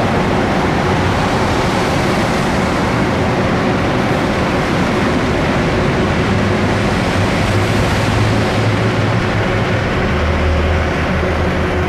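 Steady loud rush of wind and road noise on a chest-mounted microphone while riding a fat-tire e-bike, with a low hum swelling for a few seconds in the second half.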